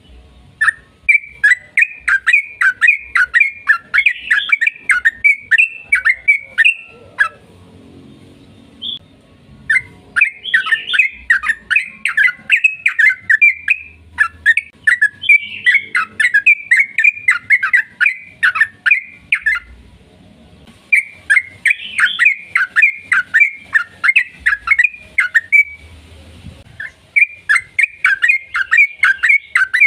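Yellow-vented bulbul (trucukan) singing long runs of quick, falling notes, broken by short pauses about 7, 20 and 26 seconds in.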